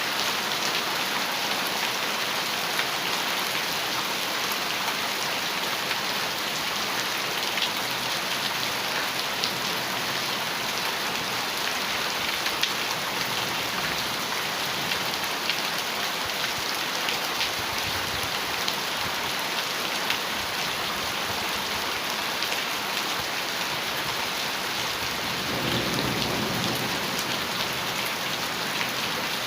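Heavy rain falling steadily on a metal roof, with sharper drops ticking on the metal throughout. Near the end a low rumble of thunder rises under it.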